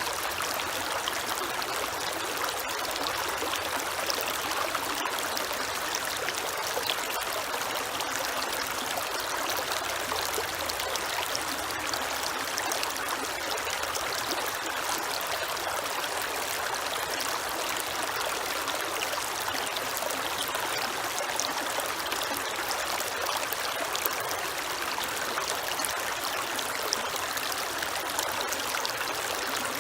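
Creek water flowing and trickling over stones: a steady, even rush.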